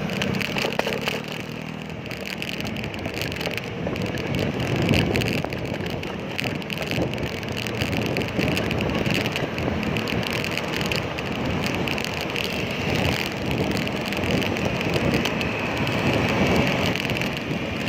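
Steady wind and road noise from riding a bicycle, with motor traffic around it.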